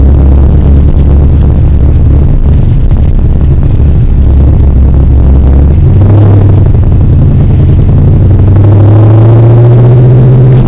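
Car engine heard from inside the cabin while driving slowly: a low steady drone that steps up in pitch about six seconds in, then rises gradually as the car gathers speed.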